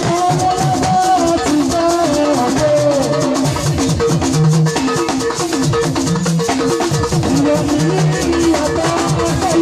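Gospel band music with a steady beat: drum kit and shaker keep time under guitars, with a melodic lead line over the top.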